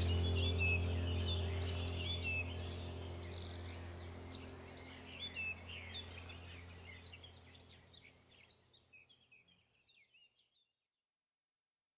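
Many small birds chirping over a steady low hum, all fading out over about seven seconds into silence.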